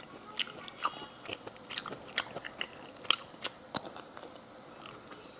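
Close-miked eating sounds of seasoned sea snails and shellfish being bitten and chewed. A run of sharp wet clicks and smacks fills the first four seconds, then it goes quieter near the end.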